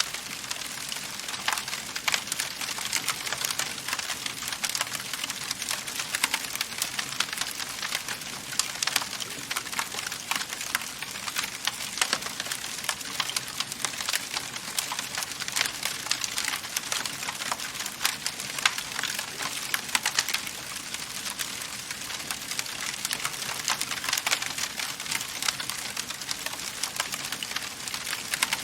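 Wood fire crackling steadily: a constant hiss full of quick small pops and snaps, with a few sharper cracks now and then.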